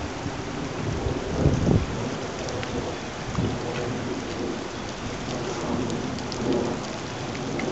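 Steady rain falling, with a brief low rumble about one and a half seconds in.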